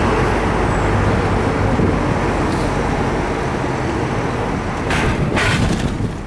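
Road vehicle noise: a steady engine and tyre rumble, with two brief hissing bursts about five seconds in.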